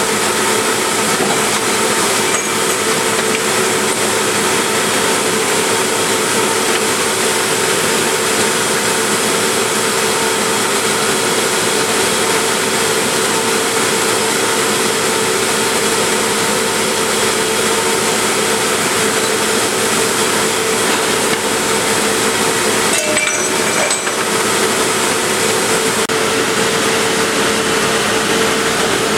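Production double disc grinder running, a steady grinding noise with a constant hum under it, briefly interrupted about 23 seconds in.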